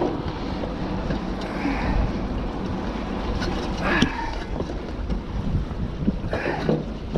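Wind buffeting the microphone over a steady low rumble on a ship's deck, with a few brief shouts from men's voices.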